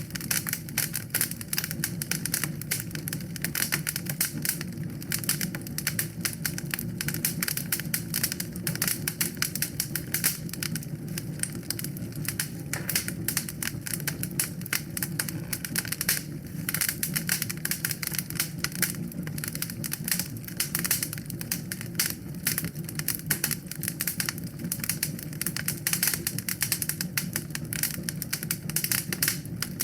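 Wood fire in a fireplace crackling: dense, irregular pops and snaps over a steady low rush of the flames.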